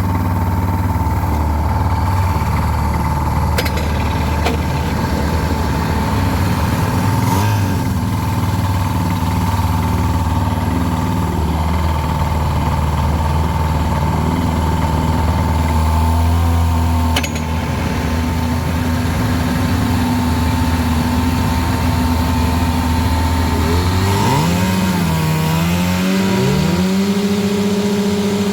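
Twin two-stroke outboard engines on a jet jon boat running steadily at low speed. Near the end they rev up with a rising pitch and settle at a higher, steady speed.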